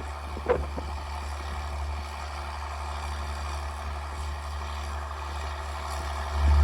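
Straight-piped John Deere 4630 tractor's six-cylinder turbo diesel running steadily under load with a low, deep drone, with one short sharp knock about half a second in; it grows louder near the end.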